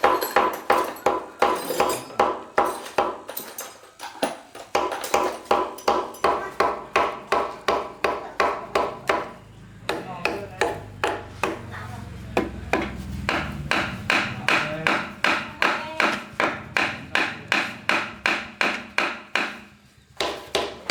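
Hammer blows on metal in fast, even runs of about three strikes a second, each strike ringing, with brief pauses between the runs.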